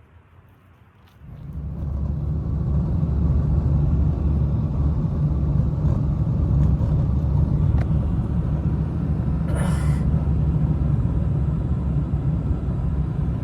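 A loud, steady low rumbling noise that swells in about a second in and then holds, with a brief hiss near the middle.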